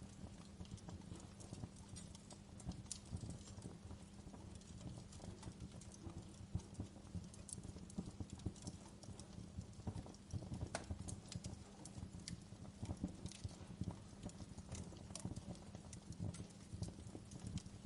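Wood fire crackling: irregular sharp pops and snaps, a few louder ones, over a steady low rumble of the burning logs.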